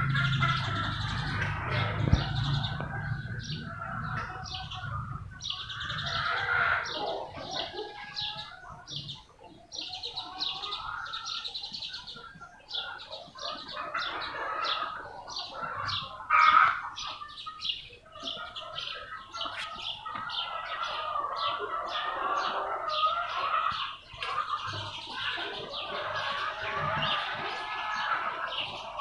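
Small birds chirping rapidly and continuously, with other bird calls beneath, and one brief louder sound about sixteen seconds in.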